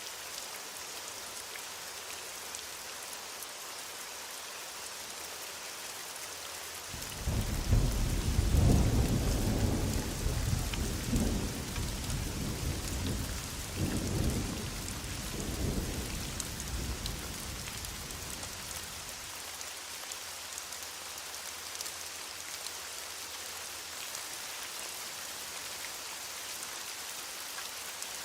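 Steady heavy rain falling, with a roll of thunder that breaks in suddenly about seven seconds in, rumbles in several swells, and fades out after about twelve seconds.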